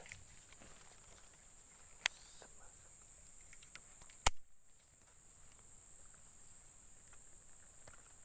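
Steady high-pitched drone of insects chirping in the background, broken by two sharp clicks about two and four seconds in, the second louder.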